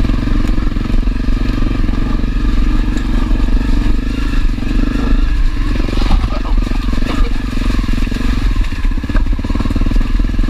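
Honda CRF250L's single-cylinder four-stroke engine running steadily as the dual-sport motorcycle is ridden along a trail.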